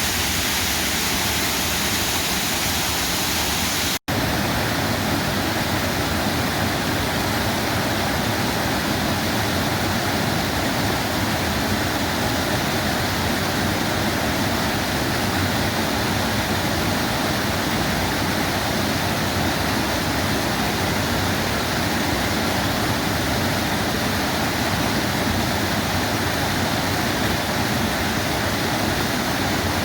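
Waterfall: a steady rush of falling water. About four seconds in it cuts out for an instant and resumes with a slightly different rush.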